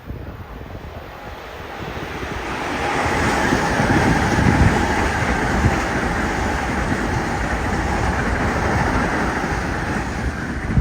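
Electric train passing at speed on the New Haven Line: the rumble of wheels on rail swells over about two seconds, holds loud and steady with a faint whine, and starts to fall away at the very end.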